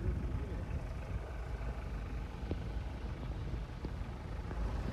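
Steady low rumble with a faint hiss, the sound of a snowstorm blowing around a car.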